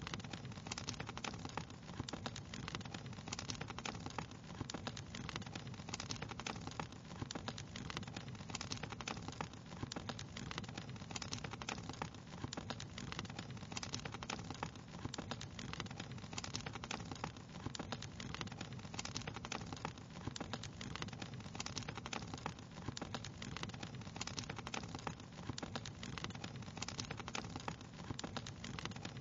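Wood fire crackling steadily: many small pops and snaps, close together, over a continuous low noise.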